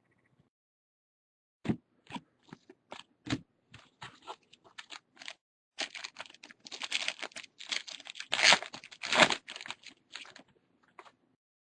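Trading cards and pack wrappers handled close to the microphone: scattered clicks and crinkles start a couple of seconds in, then thicken into steady crinkling and rustling from about six to ten seconds in.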